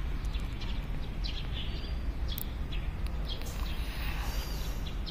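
Scattered short bird chirps and calls over a steady low rumble of outdoor background noise.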